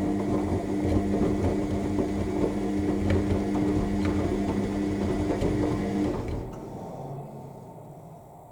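AEG 7000 Series washing machine tumbling its drum during the main wash, a steady motor hum with occasional clicks from the laundry. About six seconds in the motor stops and the sound dies away as the drum coasts to rest.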